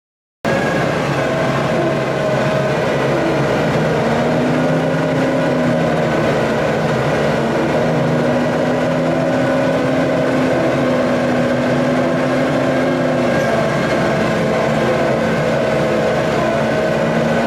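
A heavy machine's engine running steadily and loudly, with a whine that drifts slightly up and down in pitch. It starts abruptly about half a second in.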